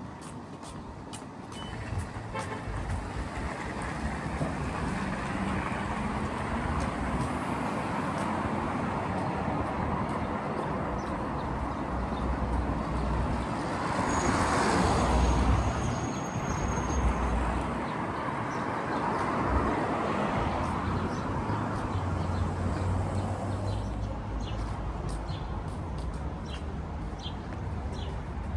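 Street traffic: a steady wash of passing cars and heavier vehicles, with one vehicle passing close and loudest about halfway through.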